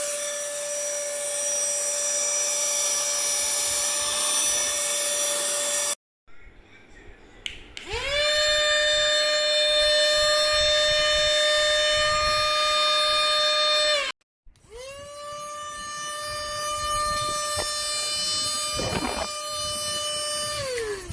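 Small high-speed electric motor of a cordless handheld vacuum cleaner and air duster, running with a steady high-pitched whine. It is switched off, spins back up, runs, stops, and starts again, winding down near the end.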